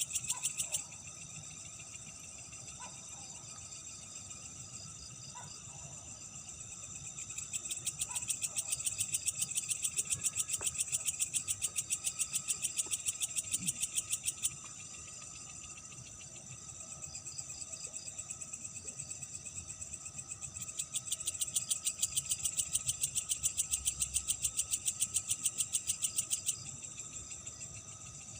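Night insects calling: a loud, rapid pulsing trill comes in two long bouts, about seven and five seconds long, over a steady fainter chorus of insects.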